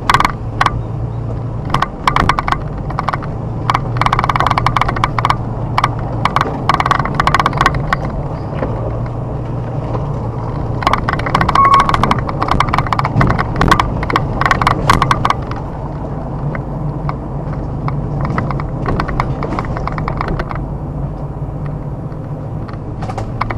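A car driving along a rough forest road: a steady engine and road hum, with stretches of rapid knocking and rattling from the uneven road surface and debris under the tyres.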